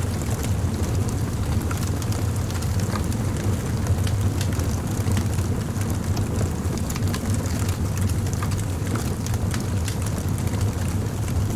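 Wood fire burning: a steady low rumble of flames with scattered crackles and small pops of the burning wood.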